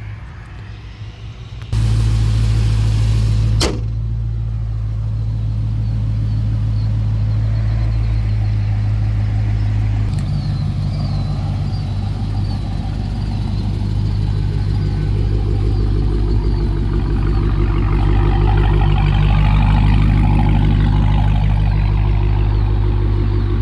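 6.4-litre 392 HEMI V8 running steadily at idle. About two seconds in it suddenly gets louder, a sharp click follows shortly after, and its tone changes about ten seconds in.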